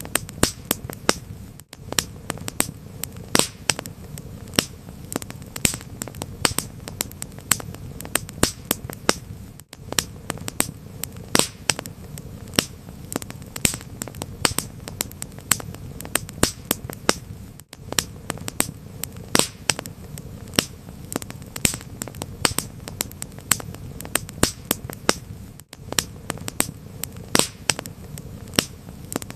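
Wood fire crackling: irregular sharp pops and snaps over a steady low rumble of the flames, with a brief dropout about every eight seconds.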